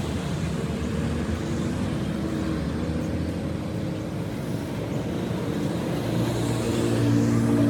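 An engine running steadily, its low hum growing a little louder near the end.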